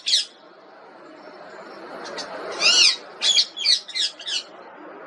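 Pet parrot calling: a short call right at the start, then one loud arching squawk about two and a half seconds in, followed by a quick run of about five short chirps.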